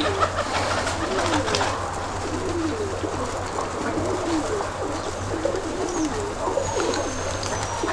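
Domestic pigeons cooing, many short rising-and-falling coos following one another and overlapping, over a steady low rumble.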